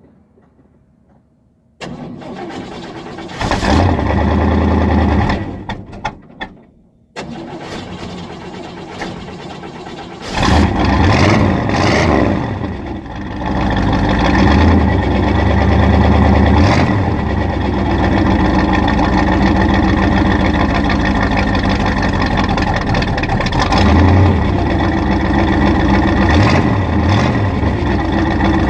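1982 Chevy K10 pickup engine cold-started at the exhaust. The starter cranks and the engine catches about two seconds in, runs briefly and dies; the owner puts this down to having pumped the gas while it was cold. It cranks again, catches about ten seconds in, revs a few times and settles into a steady idle with occasional blips.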